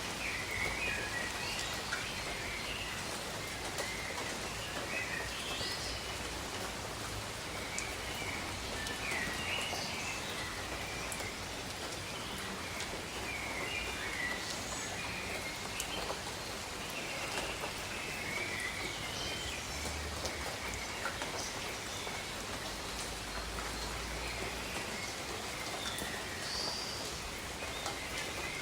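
Steady rain falling, pattering on surfaces, with birds chirping and warbling throughout.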